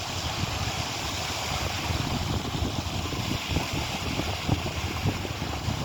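Strong wind buffeting the microphone: a steady hiss with irregular low, rumbling gusts.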